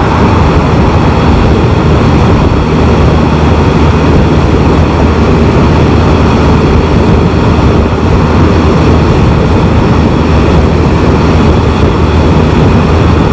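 Steady wind rush with engine and road noise from a Can-Am Spyder three-wheeled motorcycle cruising at about 65 mph, as heard by the rider's camera microphone.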